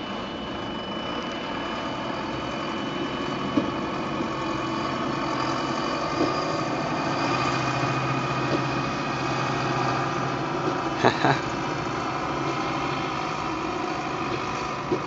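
Trolleybus running with a steady hum and rushing noise, broken by a few short sharp cracks, the loudest two in quick succession about eleven seconds in.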